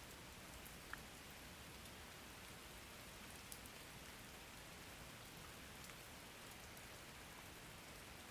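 Faint, steady rain: an even hiss of rainfall with a couple of small drop ticks, about a second in and again around three and a half seconds.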